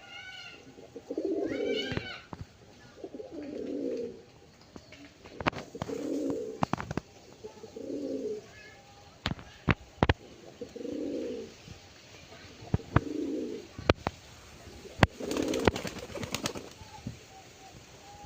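Domestic pigeons cooing, one low coo after another about every two seconds, with sharp clicks and taps in between.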